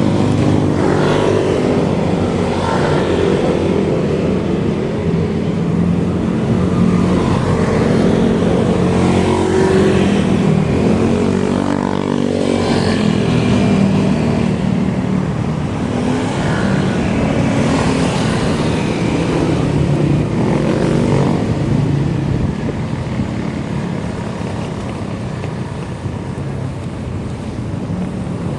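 Motor vehicle engine noise on the road, running steadily under a hiss, its pitch rising and falling a few times.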